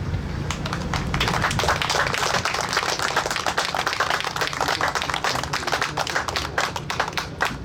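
Crowd applauding: many hands clapping that start about half a second in, build to a steady patter and thin out near the end.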